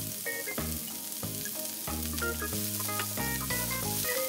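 Chopped onions and leeks sizzling steadily in hot oil in a frying pan as they are stirred with a spatula, over background music.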